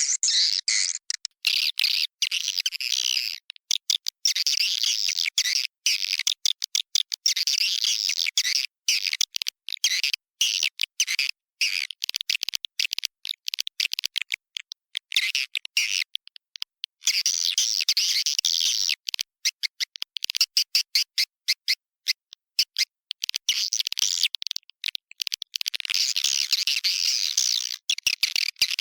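Edible-nest swiftlets twittering in a dense, rapid stream of high chirps, broken by many brief gaps: a recorded swiftlet lure call of the kind played to draw the birds into a swiftlet house.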